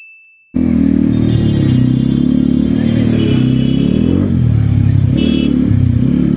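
A single ringing ding fades out, and about half a second in a Kawasaki ZX-10R's inline-four engine cuts in loud, its pitch rising and falling with the throttle as the bike is ridden.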